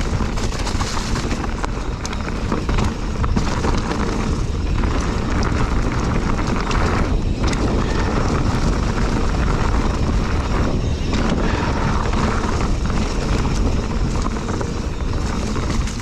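Wind rushing over a GoPro microphone as a full-suspension mountain bike rides fast down a rough trail, with the chain and frame rattling and knocking over bumps.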